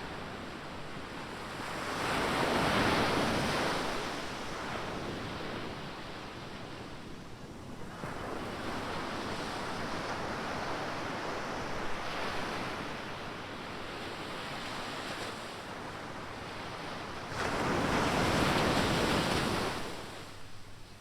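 Ocean waves breaking on a beach with steady surf wash between them; two louder breakers crash about two seconds in and again near the end. Some wind on the microphone.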